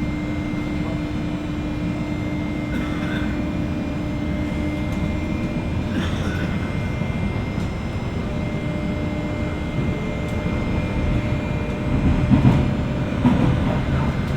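Running noise inside a JR West 201 series EMU motor car, heard over its armature chopper: a steady rumble of wheels on rail under a steady electrical hum. A few louder knocks come about twelve to thirteen seconds in.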